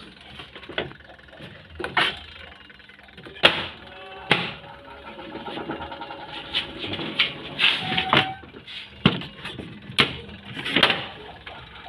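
A washing machine being handled and tried out after its power cable was repaired: a string of sharp clicks and knocks, some close together, over a faint steady hum.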